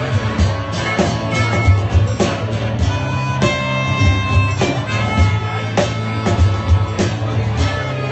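Live rock band playing an instrumental passage between sung lines: guitar and sustained notes over a low bass line, with a steady drum beat.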